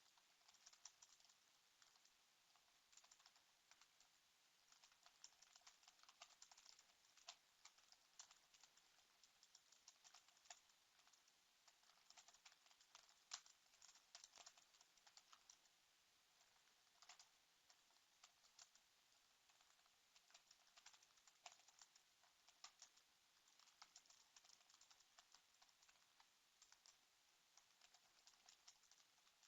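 Faint typing on a computer keyboard: quick, uneven runs of key clicks with short pauses between them.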